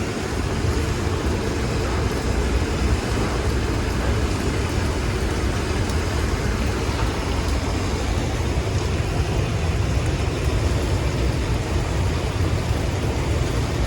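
Strong storm wind blowing steadily, rumbling low on the microphone.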